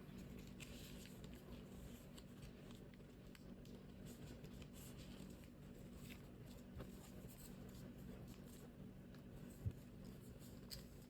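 Faint rustles and crinkles of origami paper being handled and folded over a low steady hum, with one soft thump near the end.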